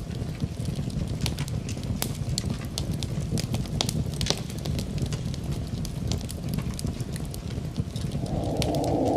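Wood fire crackling in a fireplace: irregular sharp pops and snaps over a steady low rumble. Near the end a louder steady rushing noise swells in.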